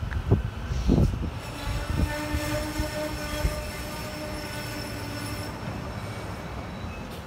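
SEPTA Silverliner IV electric multiple-unit train pulling into the station, a steady whine rising out of its low rumble about a second and a half in and fading out a couple of seconds before the end. Wind gusts hit the microphone in the first second.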